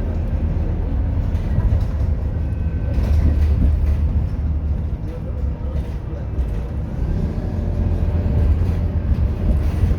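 Scania K230UB city bus's diesel engine running with a steady low rumble, its level rising and falling slightly as the bus moves.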